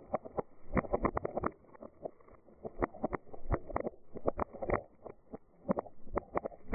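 Dried beans rattling and rolling against a container: a dense patter of small clicks that swells and fades in waves.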